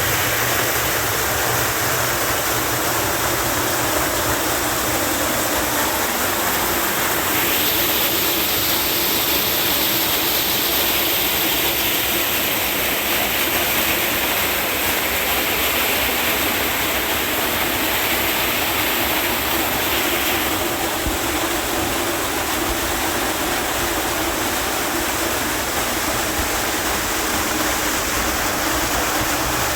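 Water rushing steadily, as from a waterfall or fast stream. A higher hiss joins about a quarter of the way in and drops away about two-thirds through.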